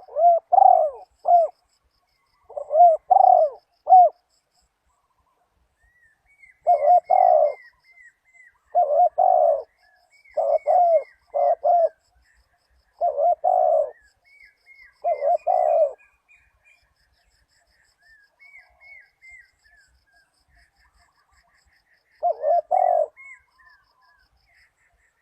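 Spotted dove cooing: about eight loud phrases of two to four low, rounded coo notes, with pauses of one to several seconds between them and a longer gap before the last. Series of thin, falling chirps from a smaller bird run between the phrases.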